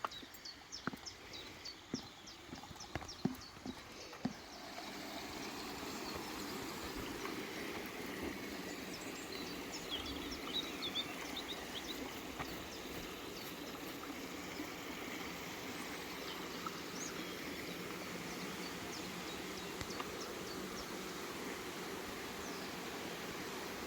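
Outdoor ambience with birds chirping: a few footstep-like clicks at first, then from about four seconds in a steady rushing noise that holds level throughout.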